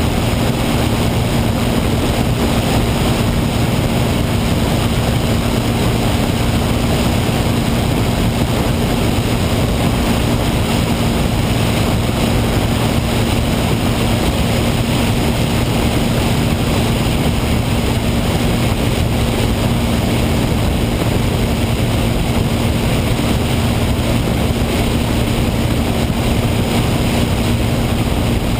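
Steady, unchanging drone of a P-51 Mustang's V-12 engine and propeller, with wind noise over it.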